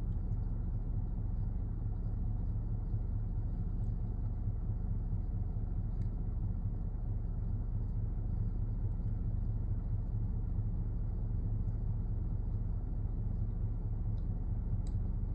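Steady low rumble, with a few faint ticks.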